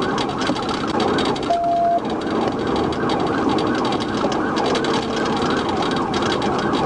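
Police car sirens yelping, their pitch sweeping up and down rapidly over the noise of the pursuit vehicles, with one short steady beep about a second and a half in.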